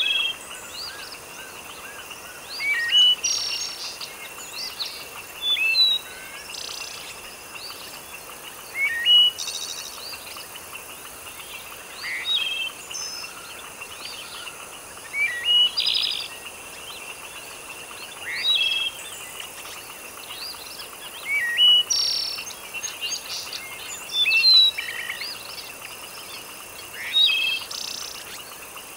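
Birds chirping in short calls that recur every two to three seconds, over a steady high-pitched drone and a soft even hiss of background noise.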